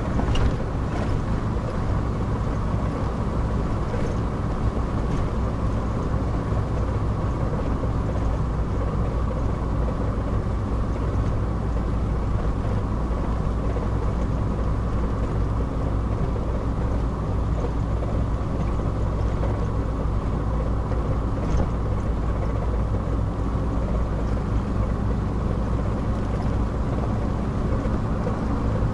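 Thirty-year-old four-wheel drive's engine and road noise heard from inside the cab while cruising, a steady low hum.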